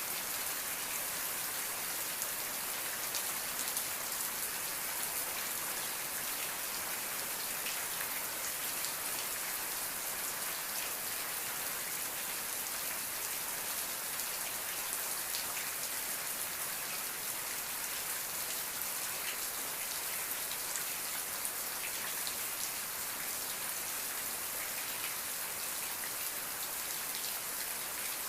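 Steady rain falling, a continuous hiss of drops with many fine ticks of individual drops landing on a surface.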